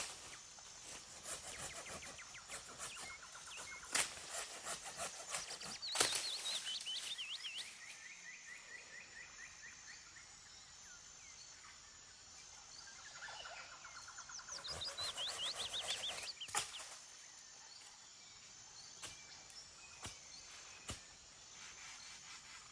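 Birds calling with fast trilled, chattering runs of notes, in two longer bouts, over a light background hiss. A few sharp clicks or knocks come through now and then.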